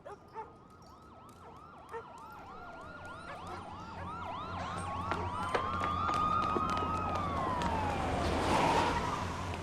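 Police sirens, one in a fast yelp and one in a slow rising-and-falling wail, growing steadily louder as they approach, with a low rumble building underneath.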